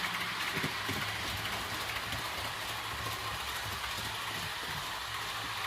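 REE TGV model train running steadily at speed on the track, its ESU sound decoder playing a TGV sound file along with the steady running noise of the model.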